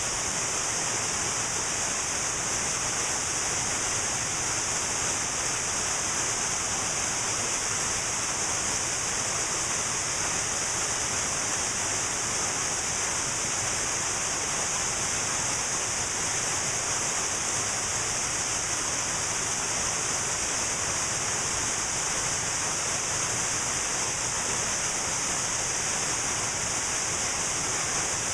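Cascading waterfall: a steady, unbroken rush of falling water with a bright hiss on top.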